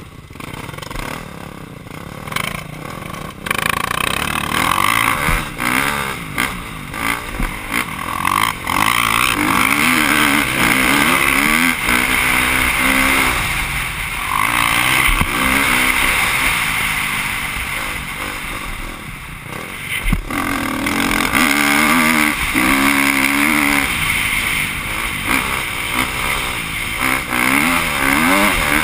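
Motocross bike engine heard on board, revving up and easing off again and again as it is ridden round the track, with a constant rushing hiss. The engine drops back for a couple of seconds about two-thirds of the way through before pulling hard again.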